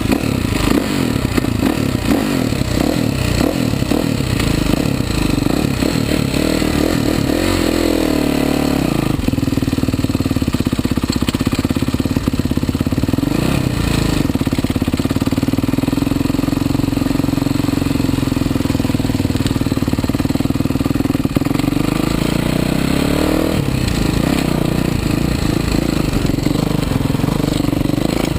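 Kawasaki KX450 motocross bike's four-stroke single-cylinder engine catching at the very start and running at low, uneven revs. It revs up about eight seconds in and holds steady revs under way, with the pitch dipping and rising again a couple of times.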